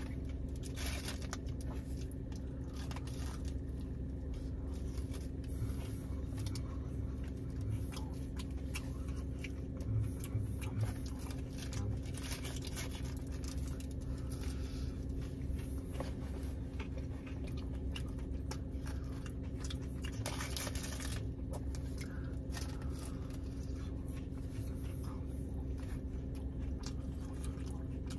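Close-up chewing and biting of a sausage breakfast burrito, with wet clicks and a few crinkles of its paper wrapper, over a steady low hum from the car.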